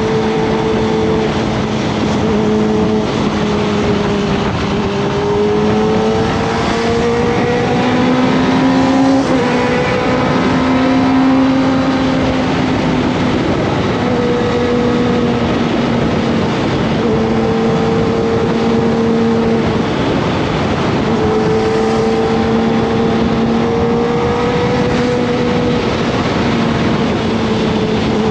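Kawasaki ZX-25R's 250 cc inline-four engine running at steady mid revs under way, its pitch drifting gently up and down, rising a little about a third of the way in before easing back, over a steady rush of wind and road noise.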